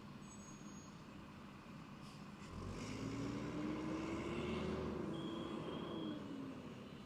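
A motor vehicle's engine comes up about two and a half seconds in, its pitch rising and then falling, and fades away near the end.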